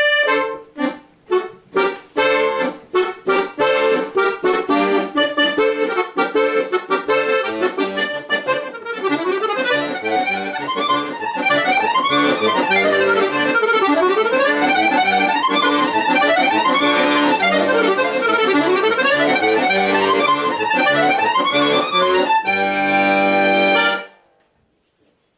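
Solo accordion playing a lively folk tune. It opens with short detached chords, moves into fast rising and falling runs, and ends on a held chord that cuts off sharply about a second before the end.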